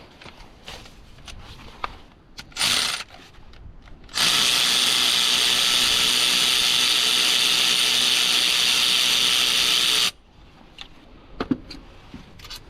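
Cordless power tool running a gearbox bolt out: a short burst about two and a half seconds in, then a steady run of about six seconds that stops suddenly, with light clicks of tools and sockets around it.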